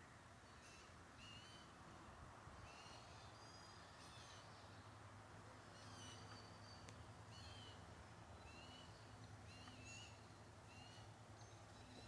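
Faint bird chirps: short, curved high notes repeated a little more than once a second, over a low steady background hum.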